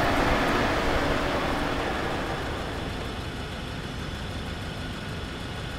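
Steady rush of street traffic noise that slowly fades down.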